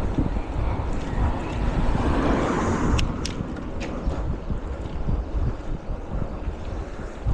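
Wind buffeting the microphone over the rumble of a bicycle ride, with a swell of noise about two seconds in and two sharp clicks around three seconds.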